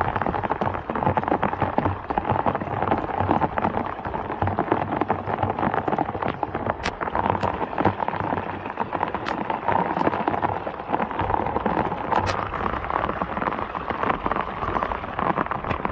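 Heavy rain falling in a downpour: a steady dense hiss, peppered with many sharp drop hits.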